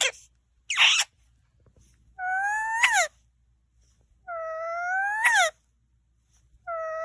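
A pet animal's repeated drawn-out cries. There are three of them, about every two and a half seconds, each rising slowly and then dropping sharply at the end, with short harsh squawks at the start and about a second in.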